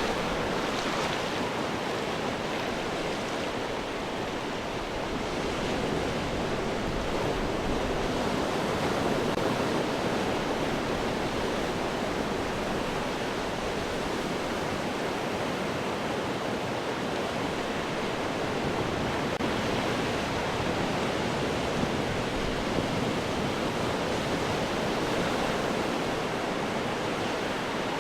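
Ocean waves breaking on rocks: a continuous rushing wash of surf that swells and eases slowly, with no single distinct crash standing out.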